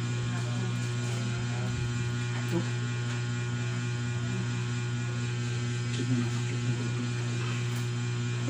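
Sakura AV-5023US amplifier switched on with no input, giving a steady low mains hum through its speaker, its power-supply filter capacitor just replaced. A couple of faint clicks occur about two and a half and six seconds in.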